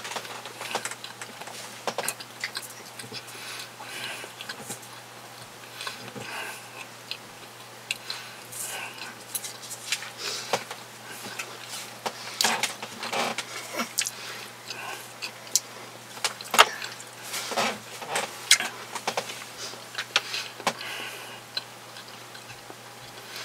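Close-up chewing of a sausage sandwich: irregular wet smacks and clicks of lips and mouth, coming in clusters.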